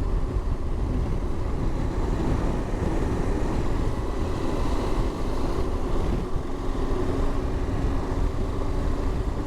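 Motorcycle engine running steadily under way, heard through an in-helmet microphone with rushing wind noise.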